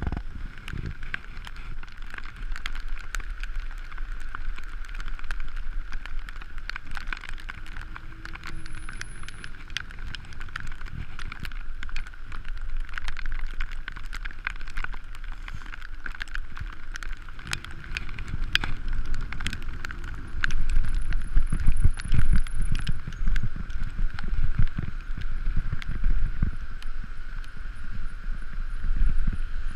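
Bicycle riding downhill on a paved highway: rattling and clicking from the bike and mount over the road surface, with a steady high hum. Wind rumble on the microphone grows louder about two-thirds of the way through.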